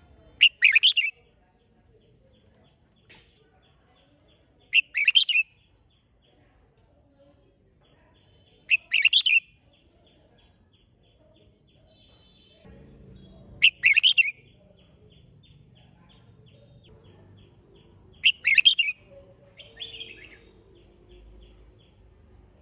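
Red-whiskered bulbul singing: five short, loud song phrases about four to five seconds apart, with faint rapid ticking notes in between.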